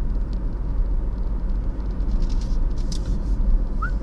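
Steady low rumble of a car driving along a road, road and engine noise. A brief rising whistle comes in near the end.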